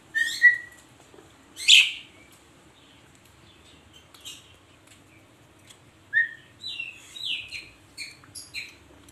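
Asian pied starling (jalak suren) calling. About a second apart near the start come a short whistle with a harsh note and then a loud harsh call. In the last three seconds it gives a run of short, falling whistled notes.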